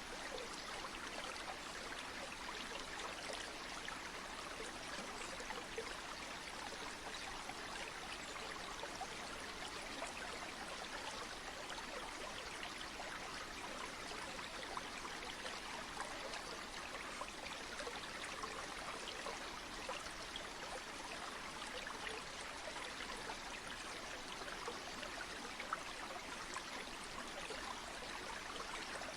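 Flowing stream water rushing steadily, an even hiss of running water with fine splashing throughout.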